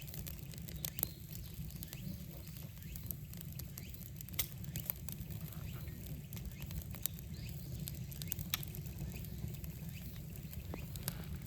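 Wood fire crackling in a newly built stone-and-earth fireplace: scattered sharp pops and snaps over a steady low rumble.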